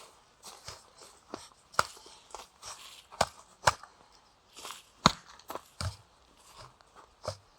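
Footsteps crunching and snapping on the forest floor, with an irregular run of sharp cracks.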